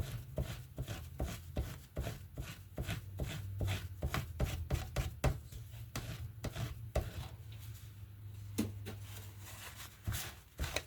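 A rubber stamp being cleaned with quick dabbing and scrubbing strokes, making a run of short taps about four a second that thins out after about seven seconds.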